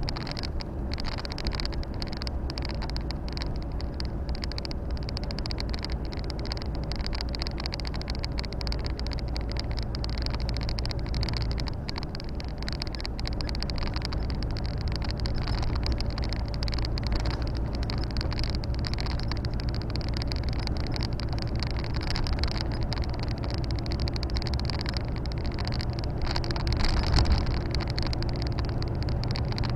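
Volvo FH 460 truck's 13-litre inline-six diesel running steadily under way, heard from inside the cab, with a steady hiss of road and wind noise; it swells briefly near the end.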